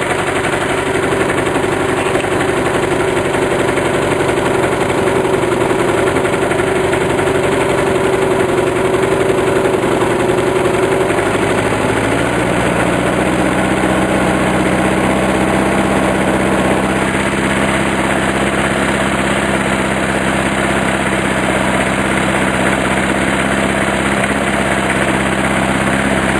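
Briggs & Stratton lawn mower engine running steadily through a muffler swapped on from a scooter. About eleven seconds in the engine speed drops, and it settles to a lower, steady speed.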